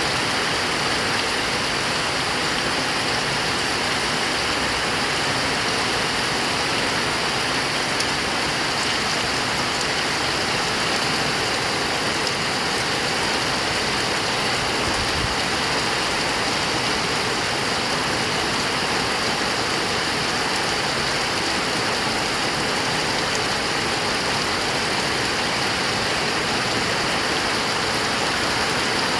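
Heavy rain falling steadily, a dense even hiss that does not change in strength.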